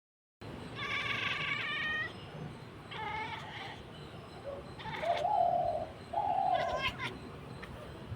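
Domestic cat giving about four short, wavering meows and chirps in a row, the excited calling of a cat that has caught sight of a bird.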